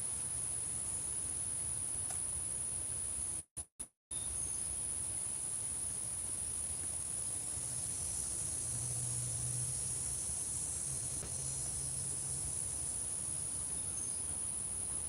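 Insect chorus singing, a steady high-pitched trill that cuts out briefly a few times about a quarter of the way in.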